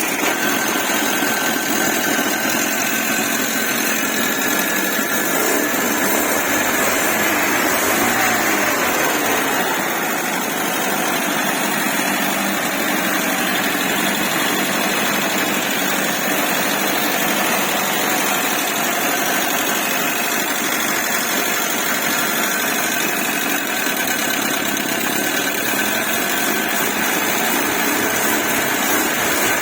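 GAZ-24 Volga petrol engine idling steadily just after starting, running smoothly and evenly.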